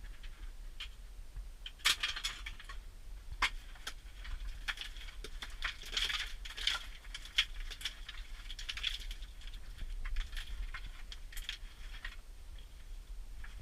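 Irregular clicks, taps and scraping rattles, some of them metallic, over a steady low hum.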